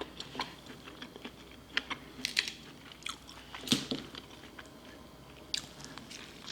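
Close-miked eating of seafood boil: soft chewing and biting with scattered small crunchy clicks.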